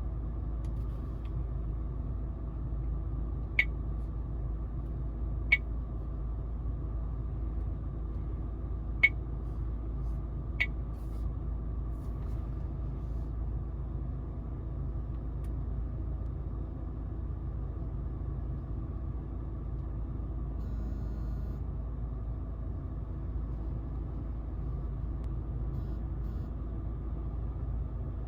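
Steady low rumble of a car cabin, with the car running. Four short, sharp clicks come a few seconds in, spaced a second or two apart.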